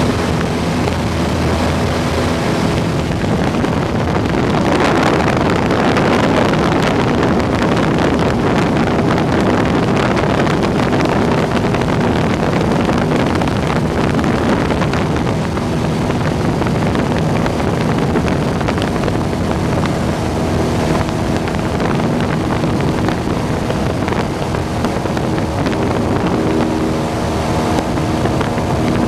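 Cessna 172's piston engine and propeller droning steadily in flight, under a heavy rush of wind. The wind noise swells about four to seven seconds in, then eases back.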